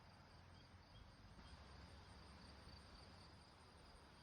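Near silence: faint steady background hiss with a faint, thin, high-pitched trill running through it.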